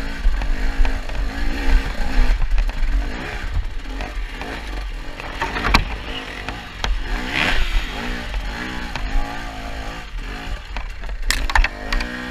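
Enduro motorcycle engine revving up and down as the bike climbs a rough, rocky trail, the pitch rising and falling with each burst of throttle. Sharp knocks and clatter come from the bike over rocks, the loudest near the middle and near the end.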